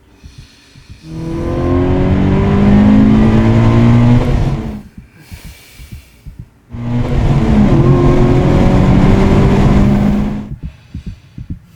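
A Subaru BRZ and a big-turbo Mazdaspeed3 driven hard, engines accelerating with rising pitch in two loud pulls of about three to four seconds each. Between and around the pulls the sound drops suddenly to a low rumble.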